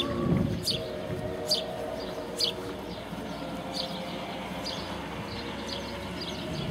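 Small songbird chirping: short, high notes about once a second, then quicker and fainter ones in the second half. Faint held musical tones fade out in the first couple of seconds.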